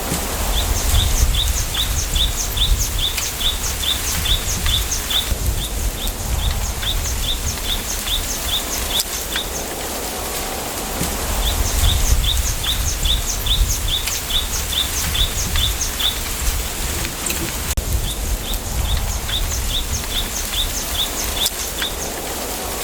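A small bird calling in long runs of short, high chirps, about four to five a second, pausing briefly partway through and starting again. Under it, wind rustles through bamboo leaves as a steady hiss over a gusty low rumble.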